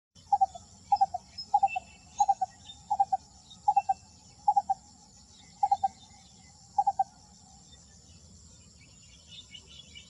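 A bird calling nine times in a regular series, each call a quick run of three clipped notes, the calls spacing out a little and stopping about seven seconds in. A steady, high, finely pulsing insect drone runs beneath.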